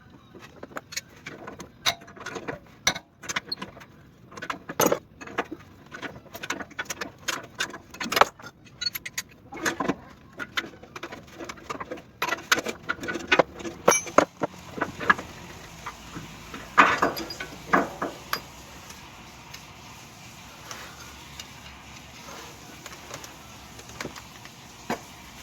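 Irregular metallic clinks and knocks of metal parts and tools being handled, dense for most of the stretch, giving way to a steady even noise for the last several seconds.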